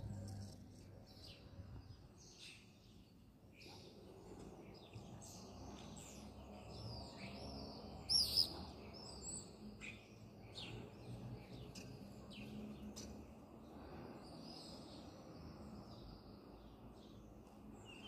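Small birds chirping and singing, many short notes and sweeping calls from several birds, with one louder call about eight seconds in, over a faint low background hum.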